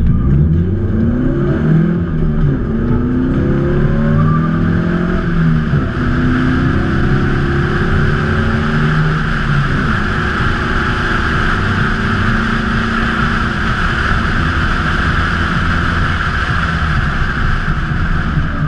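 Polaris Slingshot's engine accelerating, its pitch rising through several gears over the first few seconds, then cruising steadily under a constant rush of wind and road noise.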